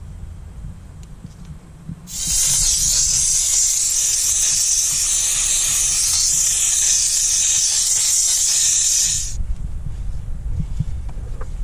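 Dupray Neat canister steam cleaner blasting steam from its nozzle: a loud, steady hiss that starts abruptly about two seconds in and cuts off sharply after about seven seconds. A low rumble, like wind on the microphone, is heard before and after the blast.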